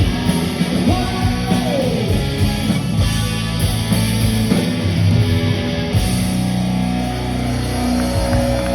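Live rock band playing electric guitars, bass and drums, with singing. About six seconds in, the busy playing gives way to a steadier, held chord ringing on.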